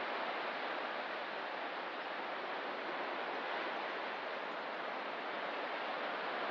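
Steady, even wash of ocean surf, with no single breaking wave standing out.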